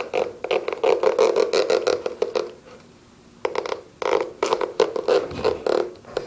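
A knife scraping and sawing at a football boot: quick rasping strokes, about five or six a second, in two bursts with a pause of about a second between them.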